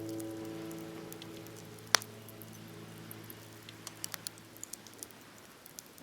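Wood campfire crackling with scattered sharp pops, one loud pop about two seconds in and a quick cluster around four seconds, while soft background music fades out.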